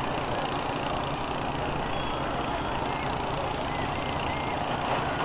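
School bus engines running in a steady rumble, with no single crash or impact standing out.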